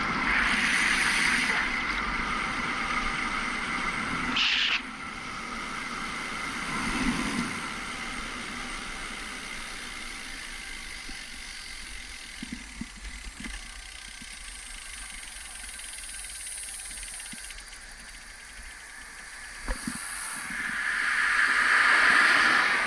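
Steady road and engine noise of a moving vehicle, with a few light knocks and a swell of hiss that rises and fades near the end.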